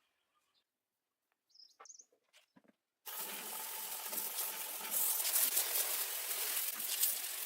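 Near silence with a few faint high chirps, then about three seconds in a power tool abrading metal starts suddenly: a loud, steady, rasping grind.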